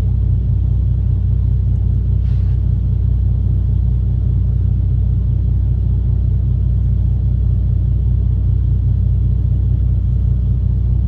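Steady low rumble of a truck's idling engine heard inside the cab.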